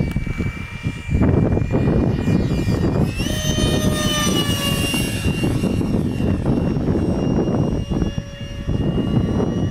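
A 64mm electric ducted fan (4300kv) on a foam RC F-35 jet whines in flight. Its pitch jumps up about three seconds in and slides back down as it passes, over heavy wind rumble on the microphone.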